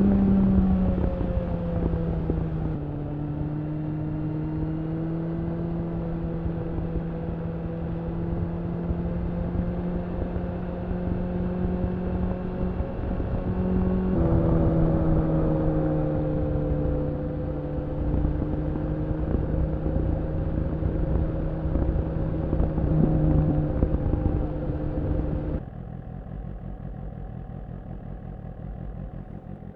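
BMW S1000RR's inline-four through an Akrapovič slip-on exhaust, running at steady riding revs. The pitch eases down at the start and makes a quick jump about halfway, then the sound drops away sharply near the end.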